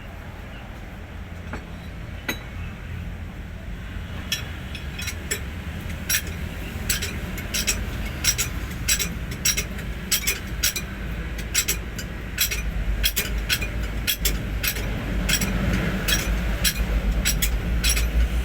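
Irregular sharp metallic clinks, a few a second, over a low steady rumble that grows louder in the last third.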